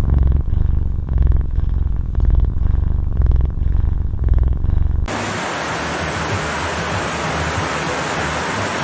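A strong low rumbling buzz that swells about once a second cuts off abruptly about five seconds in, replaced by a steady even hiss.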